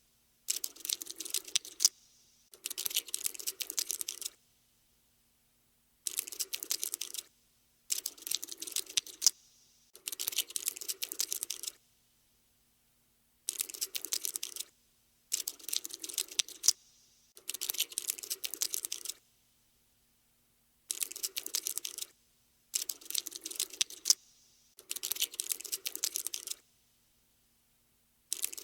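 Cockroach scuttling sound effect: bursts of fast, dry skittering clicks, each lasting one to two seconds, repeated about a dozen times with short silent gaps between them.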